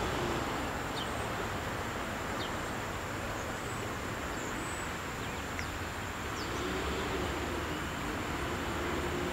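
Low, steady rumble of a distant approaching MARC commuter train, under a continuous high insect drone with a few faint bird chirps.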